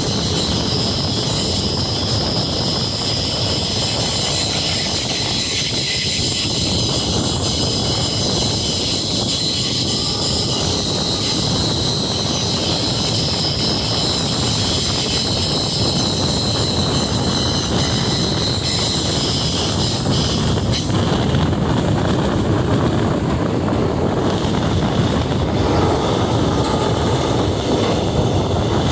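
Passenger train running along the rails: a steady rumble of wheels on track, with sustained high-pitched tones over it for about the first two-thirds, after which the highest sounds fall away.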